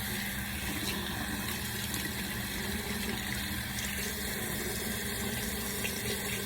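Tap water running steadily while hair is washed, with a steady low hum underneath.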